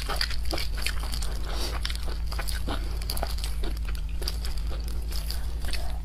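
Close-miked eating sounds: wet chewing, lip smacks and small clicks from eating soft dumplings, mixed with the crinkle of a disposable plastic glove handling the food, over a steady low hum.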